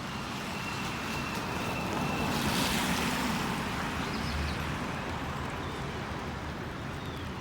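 Steady street noise, swelling as a vehicle passes about two and a half seconds in and fading again, with a few faint, short bird chirps.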